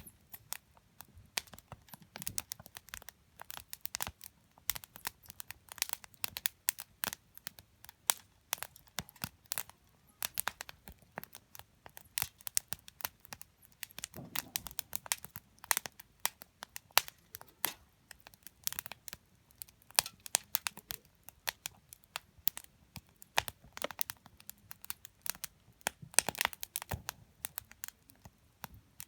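Wood campfire crackling and popping: a dense, irregular run of sharp snaps from burning firewood.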